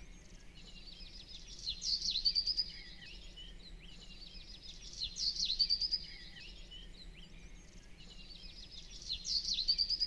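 Bird song: a short phrase of quick chirps and trills, repeated three times about every three and a half seconds, over a faint steady hiss.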